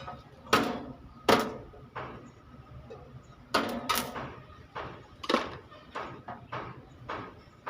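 Hammer striking the sheet metal of a dented truck footstep: about a dozen sharp, irregularly spaced blows, each ringing briefly.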